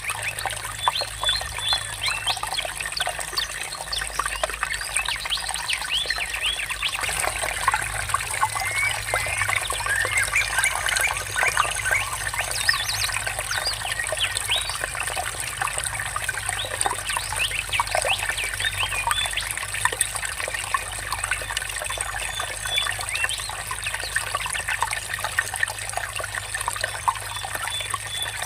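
Water trickling and babbling steadily, with birds chirping.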